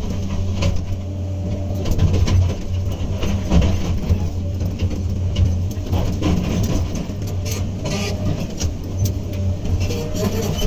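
Hydraulic excavator's diesel engine running steadily under load with a deep hum, with scattered clanks and knocks from the work throughout.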